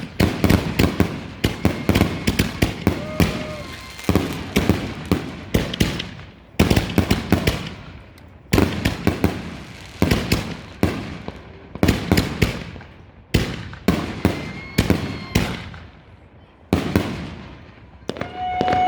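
Consumer aerial fireworks going off in a rapid series of sharp bangs, bunched in clusters that come every second or two, each bang trailing off in a short ringing tail.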